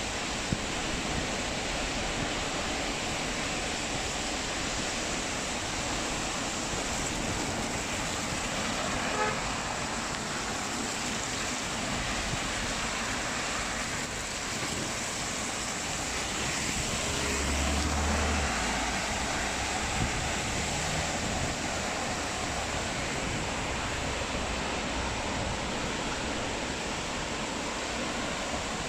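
Steady hiss of road traffic on a wet city street, with a short car-horn toot about nine seconds in and a vehicle passing with a low rumble around halfway through.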